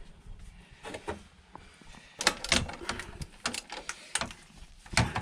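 Hand tools working on the scooter exhaust silencer's mounting bolts: a run of sharp metallic clicks and clinks, sparse at first and coming in quick irregular clusters from about two seconds in.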